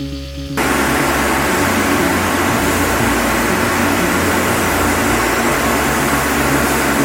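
A loud, steady hiss of rushing noise starts abruptly about half a second in and holds even, with background music underneath.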